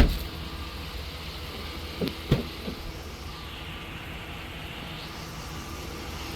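2019 Ram 1500's HEMI V8 idling with a low steady rumble, with a sharp knock at the very start and two lighter knocks about two seconds in.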